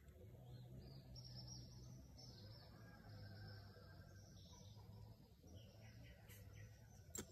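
Near silence with faint bird chirping and a low steady hum; one sharp click near the end.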